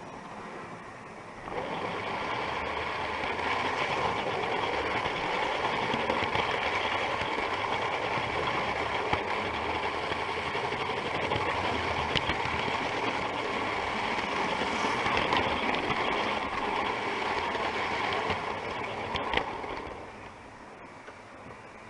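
Model railway train running on its track: a steady whirring rumble of electric motor and wheels on rail that starts suddenly about a second and a half in and falls away about twenty seconds in, with a few faint clicks.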